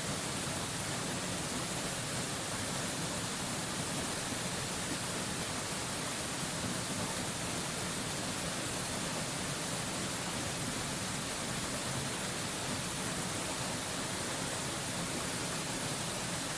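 Steady, unbroken rush of a waterfall, heard as an even hiss that is strongest in the high end and never changes in level.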